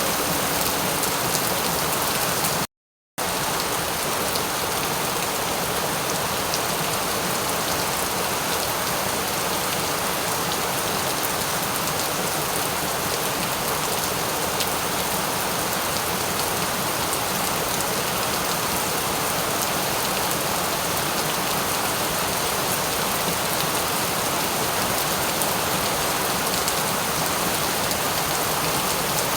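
Steady rain falling, an even hiss with fine drop patter, broken once by a half-second dropout to silence about three seconds in.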